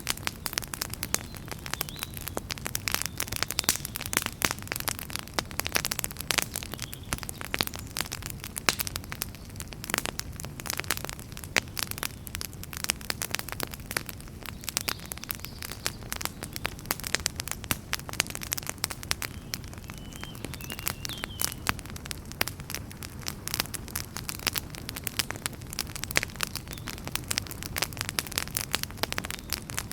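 Fire in a fireplace crackling: dense, irregular pops and snaps over a steady low rumble of the flames.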